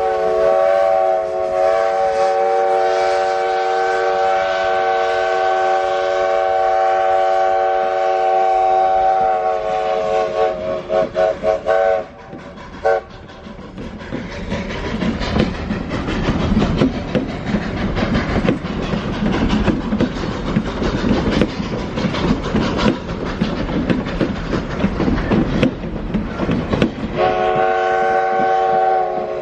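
Steam locomotive's multi-note chord whistle (apito sanfona) blowing a long, loud chord for about ten seconds, then breaking into a string of short toots. The clatter and rumble of the running train follows, and the whistle chord sounds again near the end.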